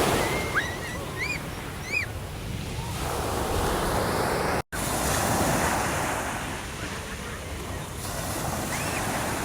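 Sea waves breaking and washing up the beach, swelling and easing. A few short high chirps sound in the first two seconds and once more near the end. The sound drops out for an instant about halfway.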